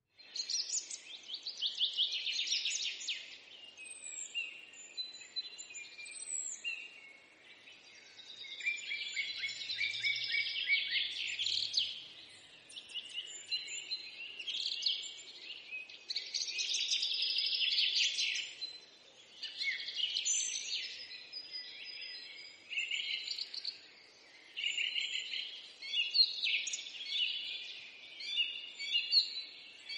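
Small birds chirping and twittering in a dense, continuous chorus of short calls and trills, with a few brief lulls, over a faint steady hiss.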